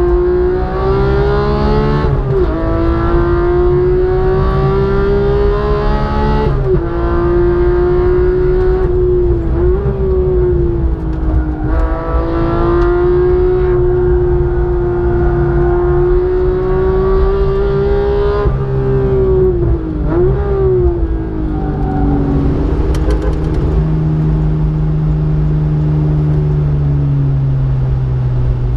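Porsche 911 GT3's flat-six engine heard from inside the cockpit, revving hard on track. Its pitch climbs and drops sharply at each gear change every few seconds. About two-thirds through, quick blips mark downshifts, and near the end it settles to a lower, steadier note off the throttle.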